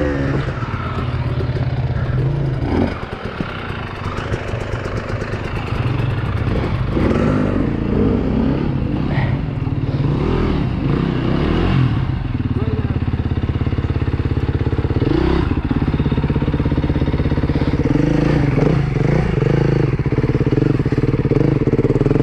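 Enduro dirt bike engine running at low revs, its note rising and falling with the throttle, as it picks its way over rocks.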